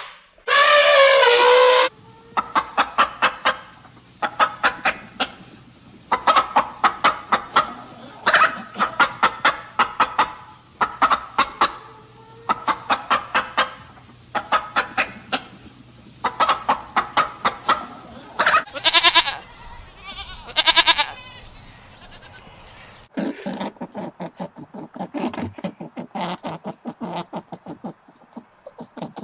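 A run of animal calls: a loud drawn-out call at the start, then short bursts of quickly repeated notes every second or two, two loud rising calls, and a faster clicking chatter near the end.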